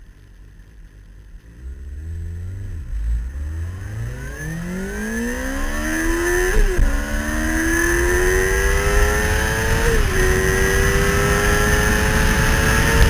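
2004 Suzuki GSX-R 750's inline-four with an aftermarket Level One Racing exhaust, accelerating hard from low revs. The pitch climbs steadily and drops sharply at two upshifts, about six and a half and ten seconds in, before climbing again. Wind rushes over the fairing-mounted camera, growing with speed.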